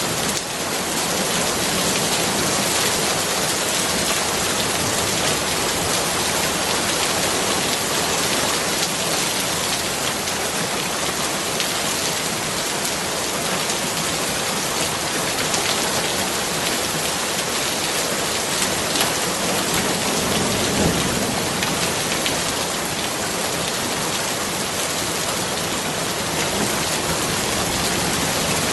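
Steady heavy rain falling and pattering on surfaces, an even hiss with a brief low rumble about two-thirds of the way in.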